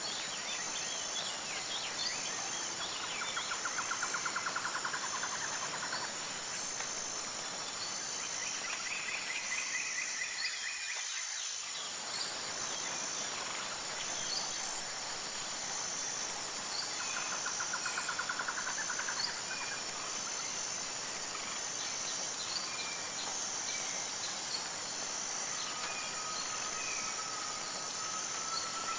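Tropical forest ambience: a steady high-pitched insect chorus with a pulsing beat, overlaid by loud trilling bursts a few seconds long that come and go, and scattered bird chirps. The sound briefly dips about eleven seconds in.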